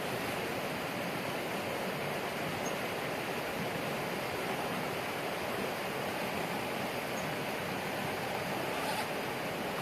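Swiftly running creek water rushing, a steady noise.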